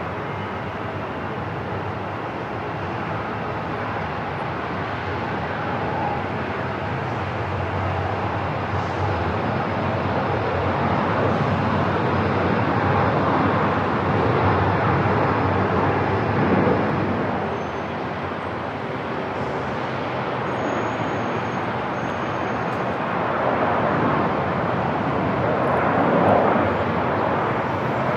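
Airport ambience: a steady rush of aircraft engine noise that swells about halfway through and again near the end.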